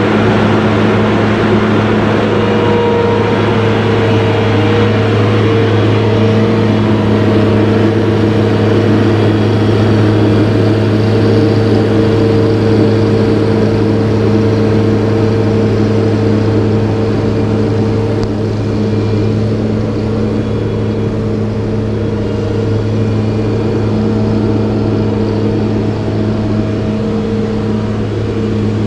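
Steady motor or engine drone holding one constant pitch, with no change in speed.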